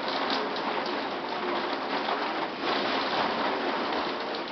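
Torrential rain pouring down in a severe thunderstorm with strong wind: a dense, steady hiss that swells and eases with the gusts.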